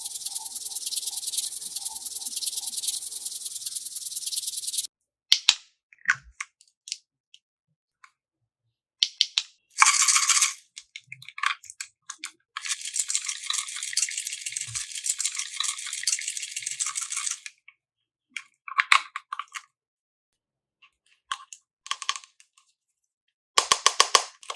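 Slime being squeezed and worked close to the microphone: stretches of crisp crackling and popping with scattered clicks, broken by abrupt cuts to dead silence.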